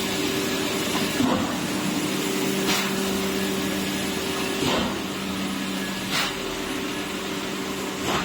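Egg tray production machinery running: a steady hum with a constant hiss, and a short burst of noise about every one and a half to two seconds as the line cycles.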